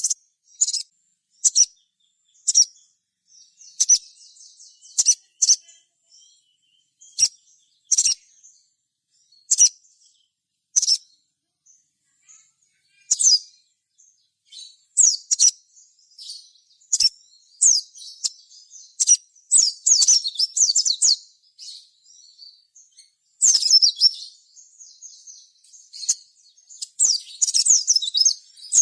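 Crimson sunbird (sogok ontong) calling in short, sharp, high-pitched chirps. They come singly and spaced out at first, then run together into quick twittering strings in the second half.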